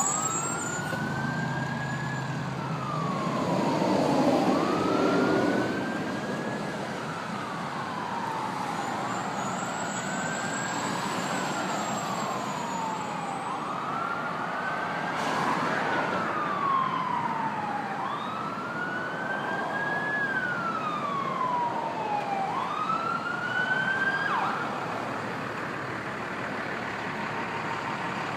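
Fire engine siren on a slow wail, rising and falling about every four seconds over road and engine noise, then cutting off near the end.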